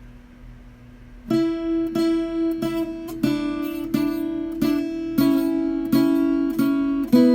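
Acoustic guitar music: after a quiet first second, chords are strummed at an even pace, about one every half second or so.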